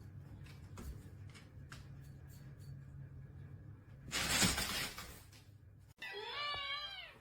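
Faint clicks, then about four seconds in a rough, noisy crash lasting about a second, like something knocked over and breaking. Near the end a cat meows in a quick run of rising and falling calls.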